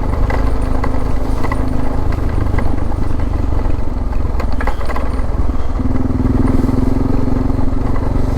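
Suzuki DR650's single-cylinder four-stroke engine running at a steady pace while riding a dirt track, with scattered clicks and rattles.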